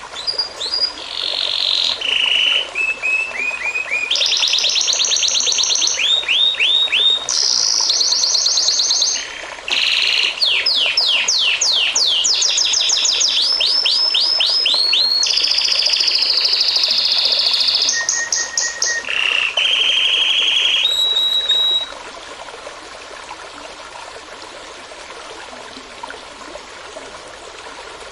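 A songbird sings a long, varied song of rapid sweeping notes, trills and whistles over the steady trickle of a small stream. The song stops about 22 seconds in, leaving only the running water.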